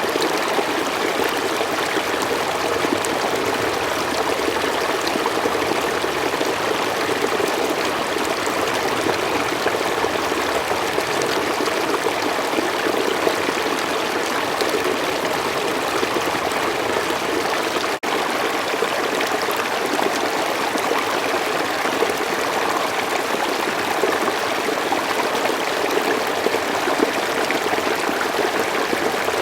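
A slow forest stream flowing, with a steady rush and trickle of water. There is a brief dropout about two-thirds of the way through.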